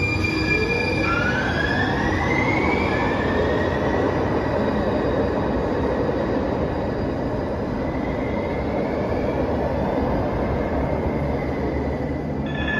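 Siemens S200 light rail vehicle running in a subway tunnel: a rising electric motor whine that levels off after about three seconds, over a steady rolling rumble. Near the end, a high steady wheel squeal sets in.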